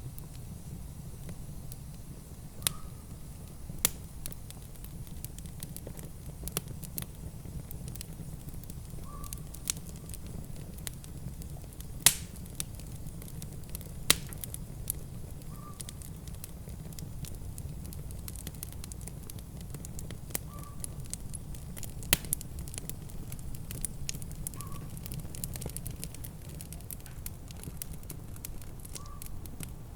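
Wood fire crackling, with irregular sharp pops, two of them loud, over a steady low rumble. A faint short high note recurs every few seconds.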